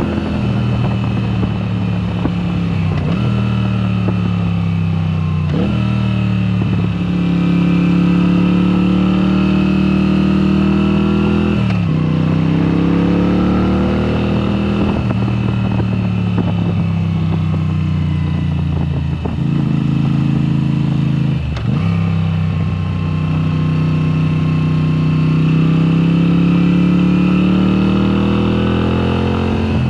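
2022 Moto Guzzi V7 Special's 853 cc air-cooled V-twin running through a Mistral exhaust with the dB killers removed, under way. The engine note climbs steadily in pitch under throttle and drops sharply at each gear change, about six times.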